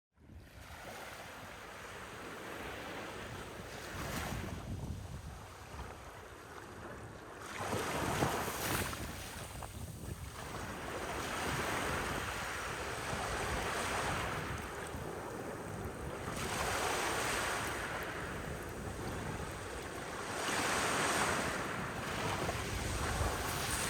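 Ocean waves breaking and washing up a beach, the surf rising and falling in a surge every four seconds or so, with wind buffeting the microphone.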